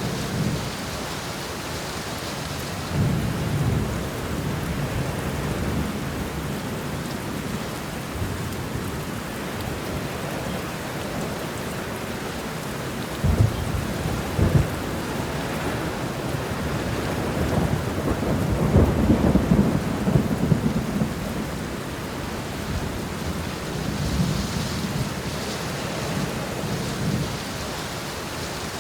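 Steady heavy rain with thunder rumbling through it. A long swell of thunder comes about three seconds in, two sharp cracks arrive near the middle, and the longest, loudest rumble rolls around two-thirds of the way through.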